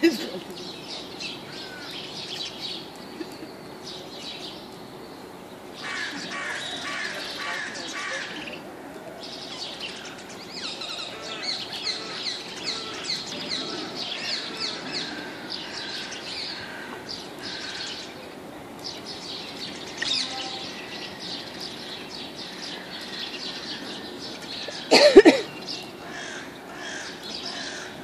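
Birds chirping and calling continuously, with one much louder, harsh call about 25 seconds in.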